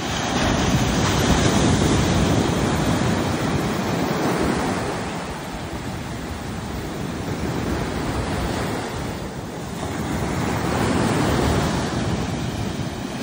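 Caribbean surf breaking and washing up the beach, swelling loud in the first few seconds, easing off, then building again with the next wave near the end.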